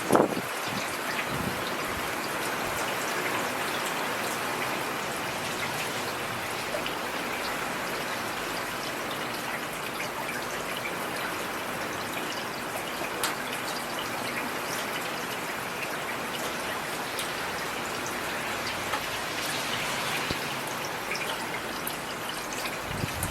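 Heavy rain falling steadily, a dense even hiss with scattered individual drops ticking through it. A short louder burst comes right at the start.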